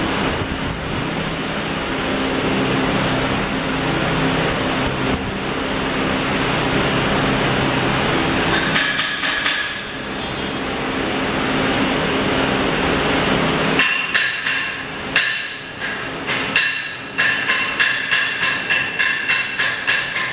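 Electric arc welding: a steady hiss with a low electrical hum. About two-thirds of the way in it gives way to a rapid run of sharp hammer strikes ringing on metal, speeding up to two or three a second near the end.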